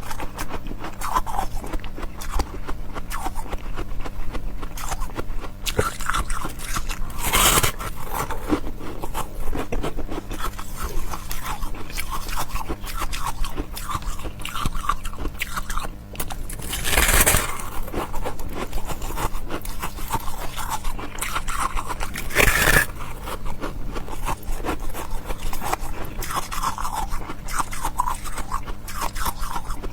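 Ice being bitten and chewed close to the microphone: a continuous run of crisp crunching and crackling. A few louder bites stand out, about a third of the way in, just past the middle and about three quarters of the way through.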